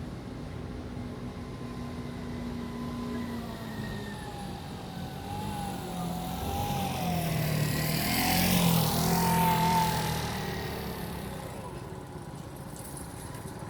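A vehicle passes close by, growing louder to a peak a little past the middle and then fading away, with a wavering whine over its rumble.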